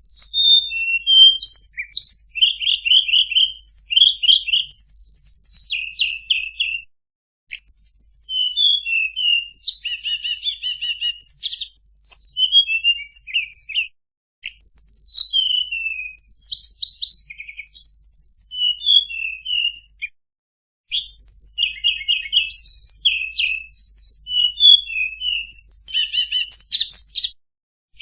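Tledekan songbird singing a rapid, varied song of high chirps, sweeping notes and short buzzy trills. It comes in phrases several seconds long with brief pauses between them. This is a masteran recording, bird song played for caged birds to learn from.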